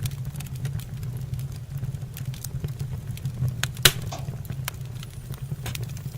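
Wood fire in a fireplace crackling, with scattered sharp pops and one loud pop about four seconds in, over a steady low hum.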